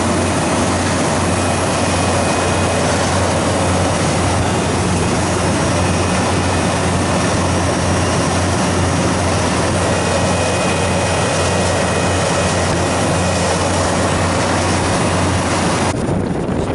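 Refrigeration condensing unit running during refrigerant charging: a steady compressor hum under the even rush of the condenser fan's air. Near the end the hum and much of the hiss cut off suddenly.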